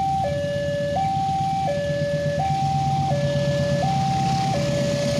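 Electronic two-tone level-crossing warning alarm sounding a steady high–low chime that repeats about every second and a half, signalling that a train is approaching. A steady low rumble runs underneath.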